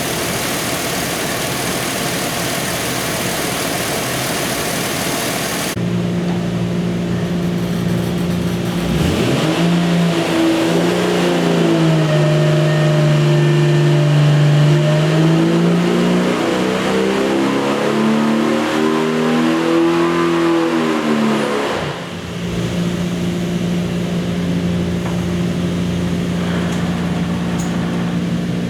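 Jeep 4.6 stroker straight-six engine running on an engine dyno: it holds steady, then is loaded up for a pull lasting about twelve seconds, its note sweeping and growing louder, before dropping abruptly back to a steady idle about 22 seconds in.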